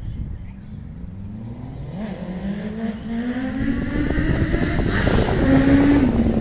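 A motor vehicle engine approaching, getting steadily louder as its pitch rises.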